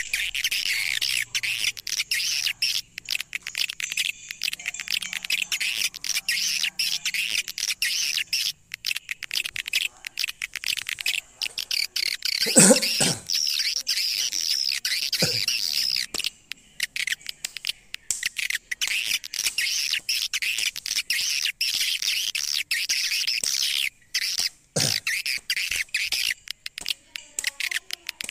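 Swiftlet call recording (suara panggil walet) played as a lure: a dense, unbroken stream of rapid high twittering chirps and clicks. A few brief low-pitched sounds break in, the loudest a little before the middle.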